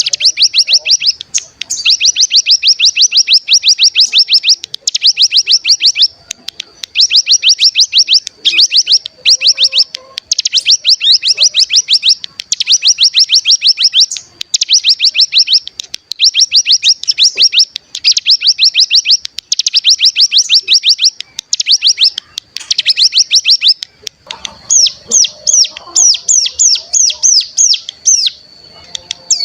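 Ciblek gunung singing loudly: rapid buzzing trills (the 'ngebren' song) in bursts of about a second, repeated with short gaps. Near the end the song breaks into a slower series of separate sharp chirps.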